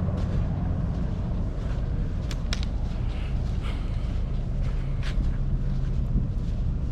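Steady low rumble of wind buffeting the microphone, with a few faint short clicks.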